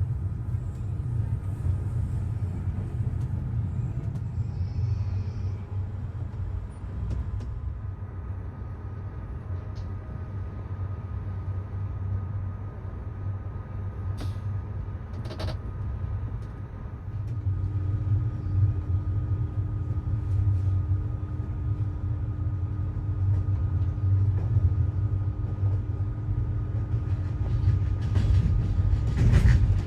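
MÁV passenger train running along the line, a steady low rumble with a couple of sharp knocks around the middle. It gets louder about halfway through, and a steady hum joins in.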